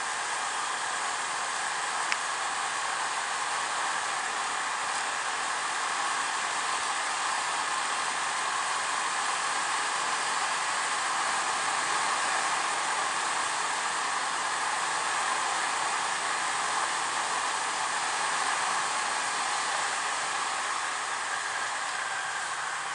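Steady rushing wind and road noise from a Honda PCX scooter under way, picked up by its onboard camera, a little louder through the middle. One small click about two seconds in.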